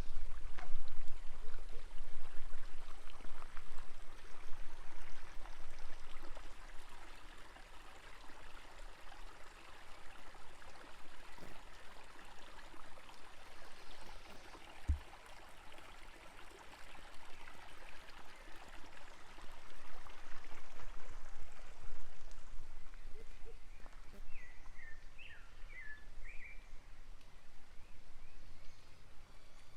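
A rushing outdoor noise that swells and fades, with a short run of small bird chirps about twenty-five seconds in.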